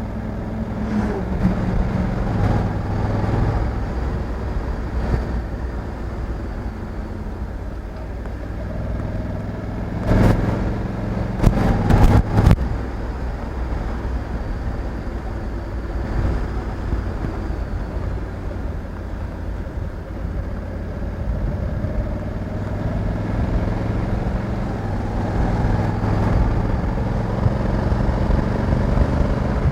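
Honda Africa Twin 1100 DCT's parallel-twin engine running while the motorcycle is ridden, its note holding steady and growing louder near the end. A short cluster of sharp knocks comes about ten to twelve seconds in.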